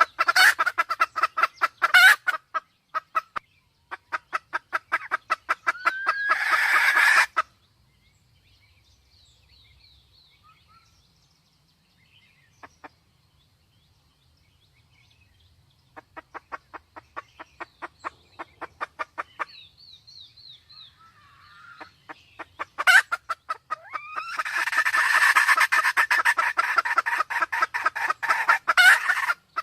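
Sumatran red junglefowl calling: runs of rapid clucks in bursts of a few seconds, with a quiet stretch of faint chirps in the middle. A longer, louder call comes near the end.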